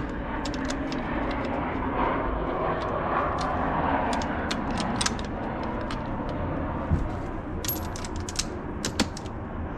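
Steady background noise with scattered light metallic clicks and clinks of hand tools, several of them close together near the end.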